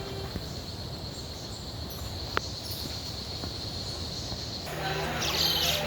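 Outdoor ambience with a steady high-pitched insect drone, one sharp click and faint chirps. About five seconds in, a louder, busier mix of high chirping sounds over a low hum takes over.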